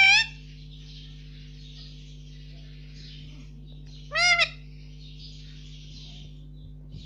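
Indian ringneck parrot calling: a loud, short squawk right at the start and another about four seconds in, each a brief rising-and-falling note, over a steady low hum.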